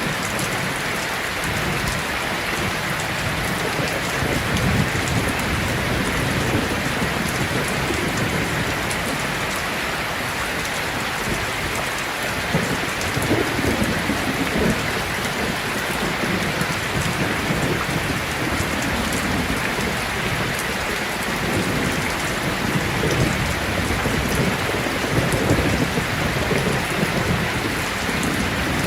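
Heavy rain falling steadily, with rolling thunder rumbling low beneath it, swelling about midway and again near the end.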